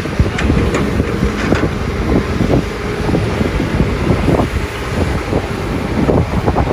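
Doosan DX300 excavator's diesel engine and hydraulics running steadily under working load, a continuous heavy rumble, with wind buffeting the microphone.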